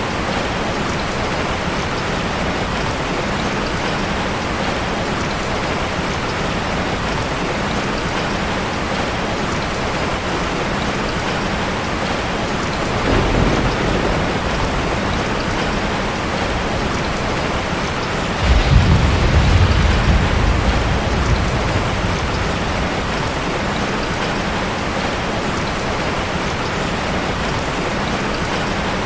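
Heavy rain pouring steadily. Thunder rumbles low twice: briefly about halfway through, then louder for about three seconds a few seconds later.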